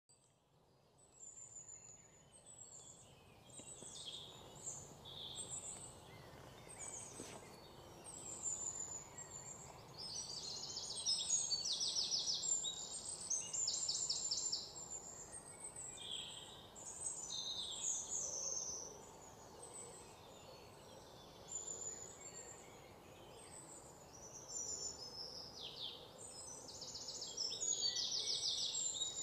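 Several small birds chirping and singing: many short descending chirps and fast buzzy trills, thickest in the middle and near the end, over a faint steady background hiss.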